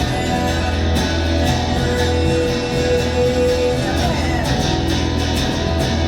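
Live band music led by guitar, with strong bass underneath and a single note held for a couple of seconds in the middle.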